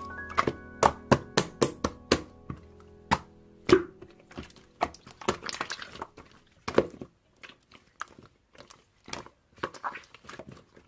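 A series of sharp clicks and knocks at an uneven pace, densest and loudest in the first few seconds and thinning out later, with a few fading music notes at the start.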